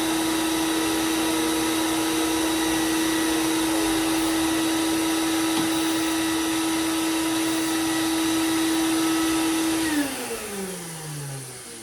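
Belt sander running with a steady hum and hiss, then switched off about ten seconds in, its whine falling in pitch as the motor spins down.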